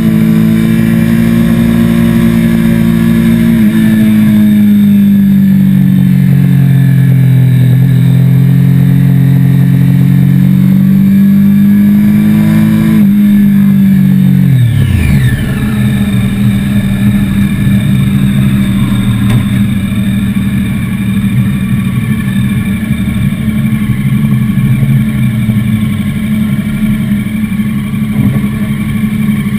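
Triumph sport motorcycle engine heard from on board, running at steady high revs with wind rush, its pitch sagging and rising again. About halfway through the revs fall sharply as the bike slows, and the engine settles to a steady low-rev note.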